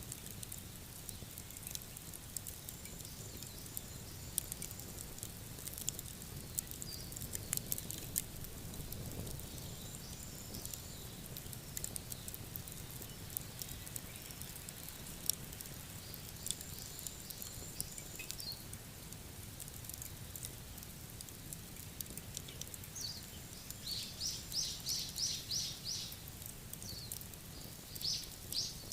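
Wood fire crackling, with scattered sharp pops over a low steady background. A bird calls in a quick run of about seven high chirps around 24 seconds in, and a couple more chirps near the end.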